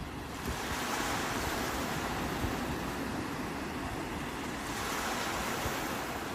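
Sea waves breaking and washing up a shore, a continuous rush that swells twice, about half a second in and again near the end.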